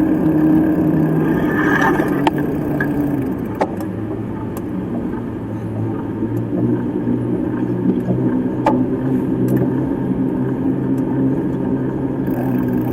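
Motorcycle engine running steadily while riding. Its pitch drops about three seconds in and settles at a lower note, with a few sharp clicks along the way.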